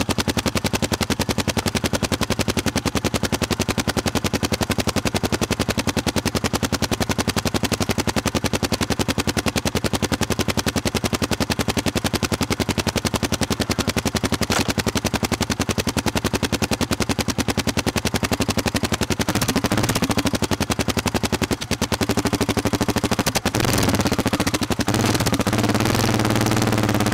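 Trail motorcycle's engine idling close by with a fast, even beat, then revved, rising and falling in pitch, twice near the end as the bike pulls away.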